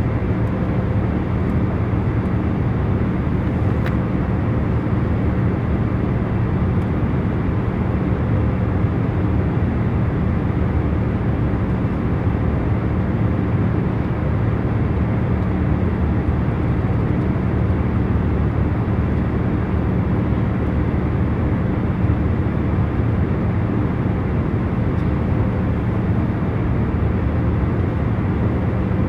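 Steady drone of an airliner cabin in cruising flight: engine and airflow noise, a low even rumble and hiss with a faint steady hum.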